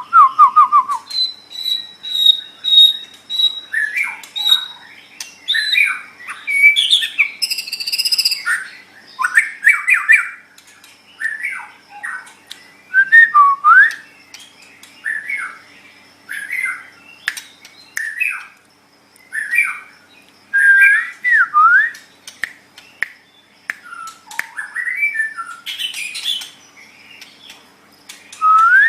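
White-rumped shama singing a varied song: loud whistled phrases with rising and falling glides, a quick series of repeated high notes, and harsher notes, in short phrases separated by brief pauses.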